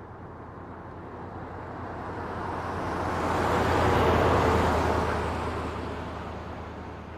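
A road vehicle passing by: a steady rushing rumble that swells to its loudest about four seconds in and then fades away.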